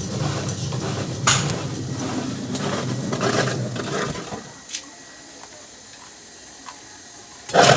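Washing machine motor driving its newly replaced gearbox, running with a steady hum and a few knocks, then stopping about four and a half seconds in.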